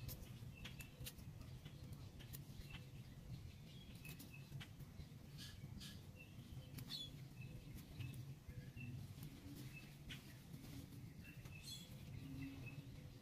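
Faint outdoor ambience: a small bird giving short high chirps again and again, with scattered clicks and rustles as sweet potato vines and soil are handled, over a low steady hum.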